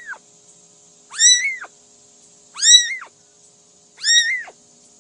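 A cat meowing repeatedly: high, arching meows that rise and then fall away, one about every second and a half. Three full meows are heard, and the end of an earlier one at the very start.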